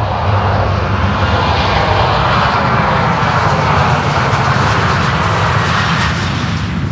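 Boeing 737-8's CFM LEAP-1B turbofan engines at high thrust, a loud jet roar that swells as the airliner passes and begins to ease near the end.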